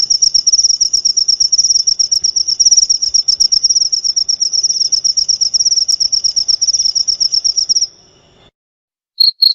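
Jaliteng cricket chirping in a fast, continuous high trill that stops about eight seconds in. After a short silence, cricket chirping starts again near the end as slightly lower, separate evenly spaced pulses.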